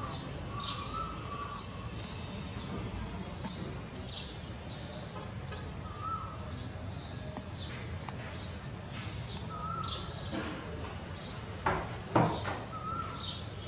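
Birds chirping outdoors: many short, high chirps and a few brief whistled notes over a steady low rumble, with two louder sharp knocks near the end.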